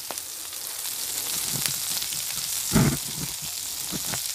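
Halved Brussels sprouts sizzling in oil on a hot Blackstone flat-top griddle as they are turned cut side down by hand. A steady hiss with small ticks, and one brief dull thump a little under three seconds in.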